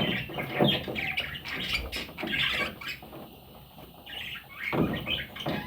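Budgerigar chicks calling: a busy run of short, overlapping calls that thins to a lull about three seconds in, then picks up again near the end.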